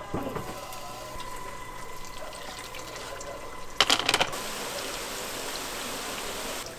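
Julienned carrots frying in oil in a wok over a gas burner, sizzling steadily. A short clatter of knocks comes about four seconds in, and after it the sizzle is louder and hissier.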